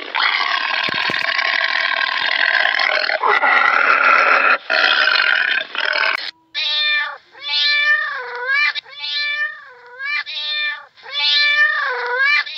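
A harsh, rasping noise for about six seconds, then a domestic cat meowing about six times in a row, each meow dipping in pitch in the middle.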